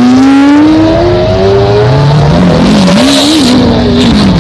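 Red Lamborghini supercar's engine accelerating hard, its note rising steadily in pitch for about two seconds and then wavering up and down as it pulls away.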